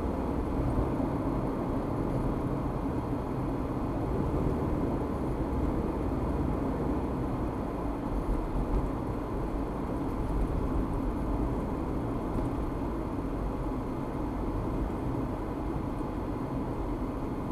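Car driving on a city street: steady rumble of road and engine noise, heard from inside the car.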